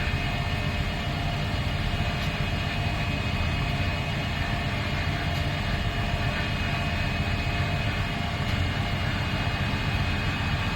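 2011 Miele PW 6080 commercial washing machine running at a steady level: a constant low drum-and-motor rumble with a faint even whine above it.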